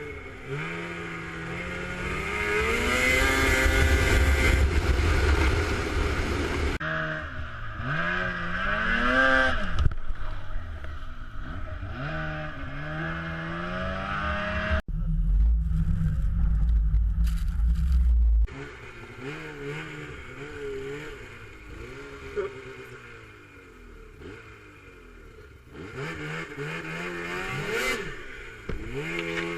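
Off-road vehicle engine revving up and down, its pitch rising and falling again and again. About halfway there is a sudden cut to a few seconds of loud low rumble, then the engine revs on more quietly.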